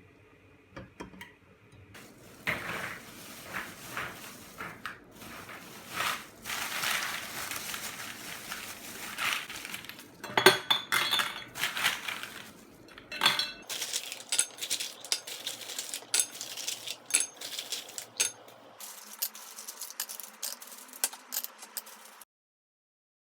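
Dishes and cutlery being handled: repeated clinks and knocks of tableware with rustling in between, stopping abruptly near the end.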